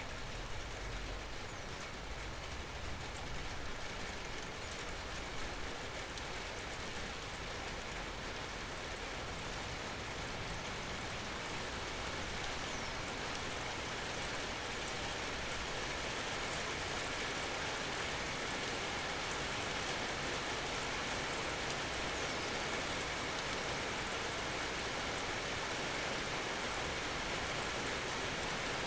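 Steady natural rain falling under an almond tree, a continuous even patter that grows gradually louder.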